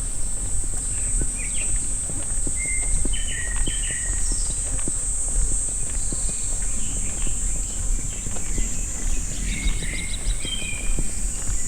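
Footsteps along a forest path under a steady high-pitched drone of summer cicadas, with scattered short bird chirps.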